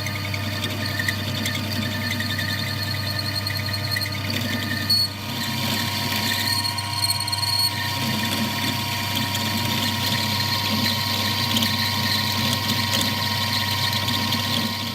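Metal lathe running while a boring bar cuts the off-centre bore of a steel vice-handle end to true it up. A steady motor hum carries high, ringing tones from the cut, with a brief dip about five seconds in, after which a new steady tone holds.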